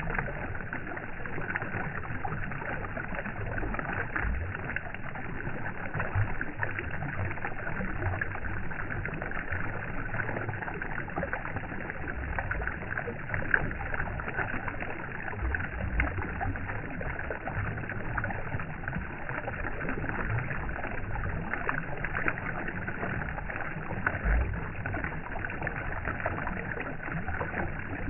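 Steady rushing water with occasional soft low thumps.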